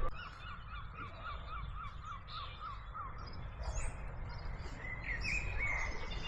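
Birds calling, starting with a run of short chirps repeated about four or five times a second for around three seconds. Near the end come a few higher chirps, all over a low steady background noise.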